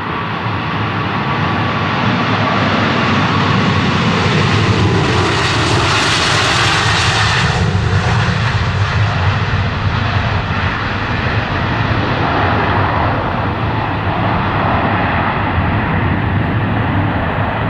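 Airliner engines as the plane passes, a loud steady rush whose hiss grows sharpest about six to seven seconds in and then dulls as it moves away.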